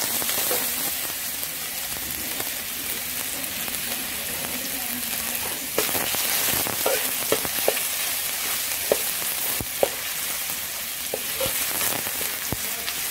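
Oil sizzling steadily in a metal wok as minced ingredients fry. A metal spatula stirs them, clinking and scraping against the wok several times in the second half.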